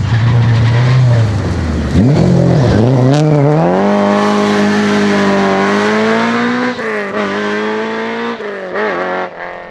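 Rally car engine under hard acceleration on a gravel stage. The revs dip and then climb steeply after about two seconds, hold high and slowly rise, then break off with a couple of lifts near the end as the sound fades.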